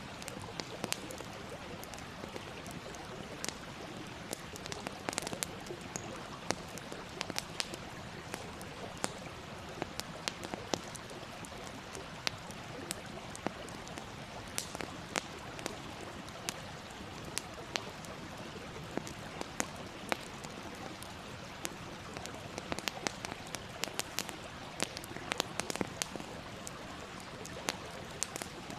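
Wood fire crackling: a steady hiss with frequent, irregular sharp pops and snaps, several a second at busy moments.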